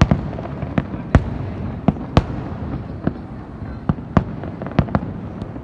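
Fireworks display: about ten sharp, irregularly spaced bangs of bursting shells over a continuous rumble of further distant explosions.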